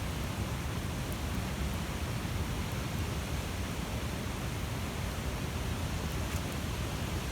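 Large bonfire burning with a steady low rush of flames and a couple of faint crackles.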